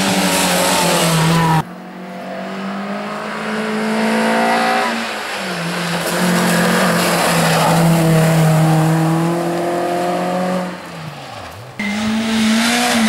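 Rally car engines at full throttle. The revs climb, drop at a gear change about five seconds in, hold high, then fall away as the driver lifts off. The sound breaks off abruptly twice, about a second and a half in and near the end, as it jumps to another pass.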